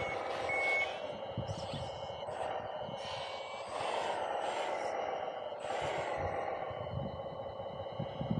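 Radio-controlled construction trucks and machines running, with a steady engine-like sound that swells and dips in pitch twice. A reversing beeper sounds for the first moment.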